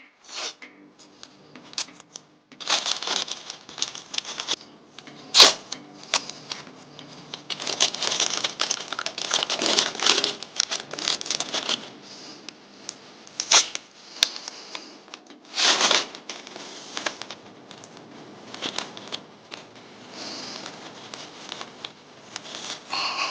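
Masking paper crinkling and masking tape being pulled and torn, in irregular rustling bursts with a couple of sharp snaps.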